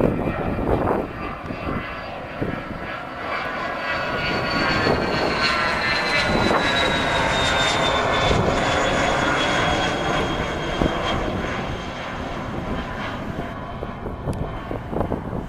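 Jet engines of a Dassault Falcon 2000 passing by: a loud rushing with a high whine that falls steadily in pitch as the jet goes past, swelling to its loudest about halfway through and then fading.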